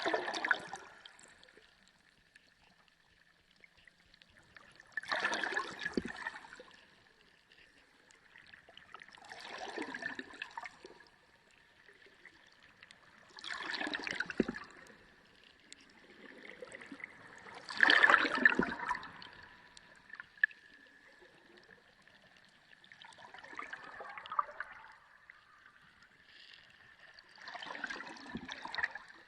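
Underwater water sound: seven gurgling, bubbling surges of about a second each, coming roughly every four seconds, the loudest one just past the middle, over a faint steady high tone.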